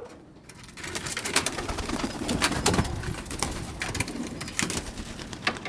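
Birmingham roller pigeons cooing low, with many scattered sharp clicks throughout.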